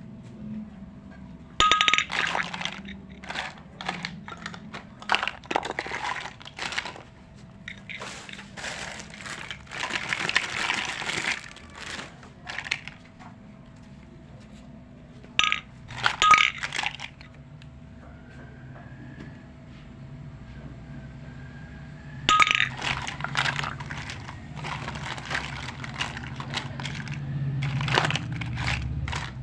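Tiny toy kitchenware pieces clinking, tapping and clattering against each other as they are handled, in several flurries, some strikes with a short ring. A longer stretch of rustling comes in the middle, and a faint steady hum runs underneath.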